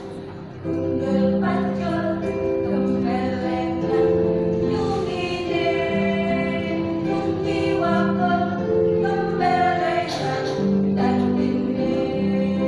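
Women's choir singing a slow song in held notes over instrumental accompaniment, coming in about half a second in.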